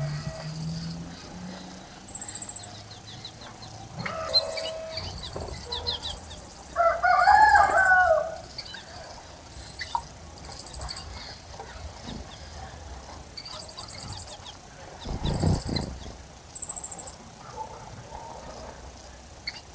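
Wild birds calling around a garden bird bath: short, very high-pitched chirps repeating every second or so, with a lower call that bends in pitch about seven seconds in. There is a dull low bump about fifteen seconds in.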